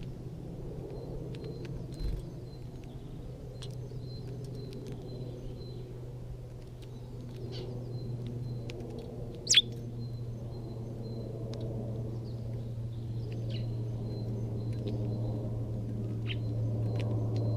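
Small garden birds giving short, scattered chirps, with one louder sharp chirp about halfway through, over a steady low rumble that grows louder toward the end.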